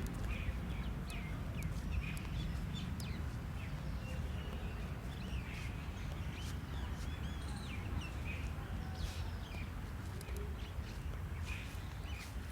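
Birds chirping and tweeting in short, scattered calls over a steady low rumble, with a few sharp clicks.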